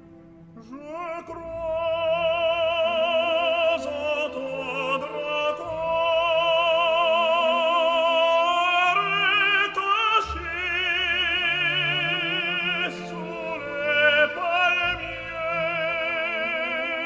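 Operatic solo voice singing long, held notes with wide vibrato over orchestral accompaniment. The voice enters about half a second in, after a few bars of strings.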